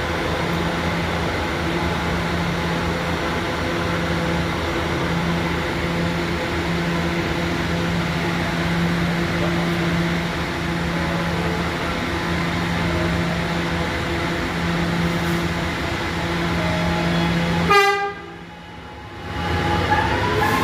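R211 subway train standing in the station with a steady electrical hum from its onboard equipment. Near the end a brief tone with many harmonics sounds, and then a rising motor whine as the train starts to pull out.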